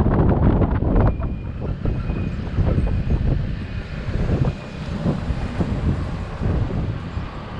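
Wind buffeting the microphone of a rider on a moving e-bike, over a low rumble of the ride, easing a little about a second in. A faint high-pitched tone comes and goes for a few seconds.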